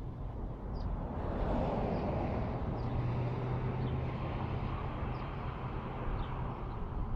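Motorcycle engine running with a steady low hum, swelling about a second in as it comes closer, then easing off. Faint short bird chirps repeat about once a second.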